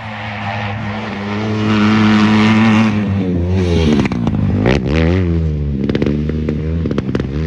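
A motocross race engine close by, getting louder at a steady pitch, then revving hard: its pitch dips and climbs again and again as the rider works the throttle and shifts, with a few sharp cracks in the middle.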